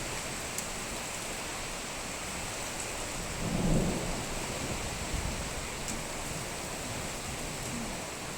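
Steady rain hissing during a thunderstorm, with a low rumble of thunder swelling briefly about three and a half seconds in.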